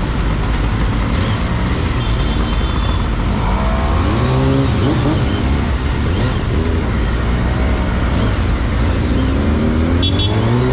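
Honda CBR250RR MC22 inline-four engine running under way, with a low wind rumble on the helmet camera. Near the end the engine pitch climbs steadily as the bike accelerates.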